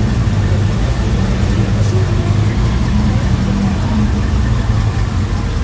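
Car engines running steadily at low speed as show cars pull out.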